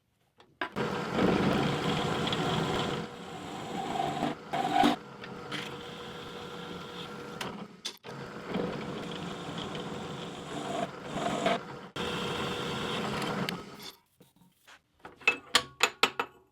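Electric drill boring holes into steel railroad spikes, running in two stretches of several seconds each, followed by a few sharp clicks and knocks near the end.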